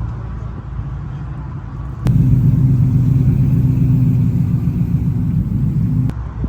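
Car engine running at a steady pace with a low rumble. About two seconds in, a much louder, deeper engine sound cuts in abruptly, holds steady for about four seconds, then cuts off just as suddenly, leaving the quieter rumble.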